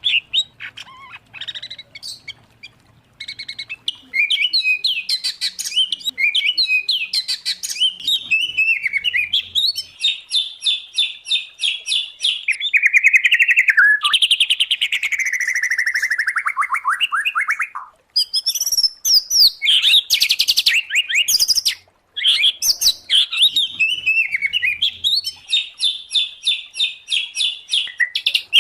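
Cage songbirds of the kinds kept for song contests (white-rumped shama, oriental magpie-robin, greater green leafbird) singing loud, varied song: fast rattling trills of repeated high notes and whistled phrases, with a long falling phrase near the middle and two brief pauses later.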